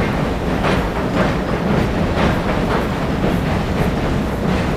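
Tobu Railway train crossing the steel truss bridge over the Sumida River: a steady rumble with wheels clattering over rail joints, a little under two clacks a second.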